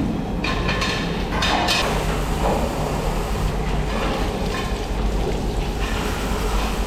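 Factory machinery running with a steady low rumble and irregular metallic clatter and scraping, busiest in the first two seconds.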